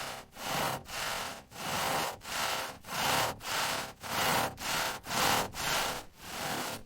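Hand saw cutting through wood in steady back-and-forth strokes, about two a second, with a rasping sound on each stroke. It stops abruptly at the end.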